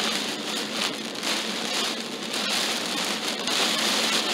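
Heavy rain pelting a car's windshield and roof, heard from inside the cabin as a steady, dense hiss.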